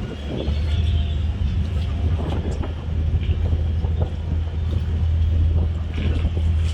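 Boat engine running with a steady low drone under a constant hiss, growing a little louder about half a second in.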